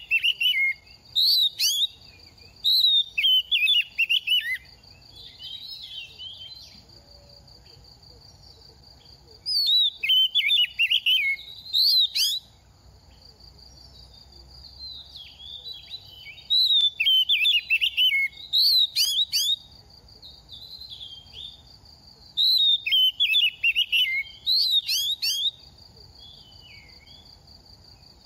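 Oriental magpie-robin singing in four loud bouts of rapid whistled phrases, each a few seconds long, with softer snatches of song between them. A steady high tone, like an insect hum, runs underneath.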